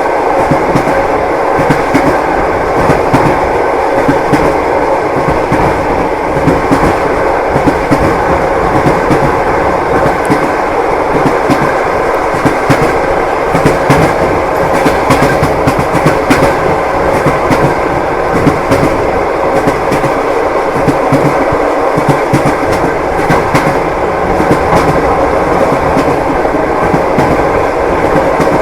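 Moving train carriage: a steady rumble and rattle with frequent small, irregular clacks of the wheels over the rails.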